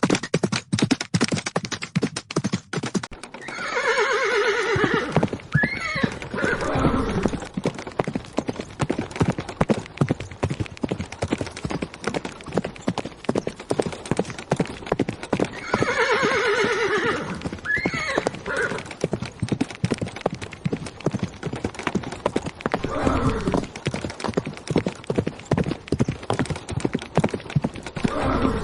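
Horses galloping, their hoofbeats a rapid, continuous patter, with a horse neighing about four seconds in, again around sixteen seconds, and more faintly once more later on.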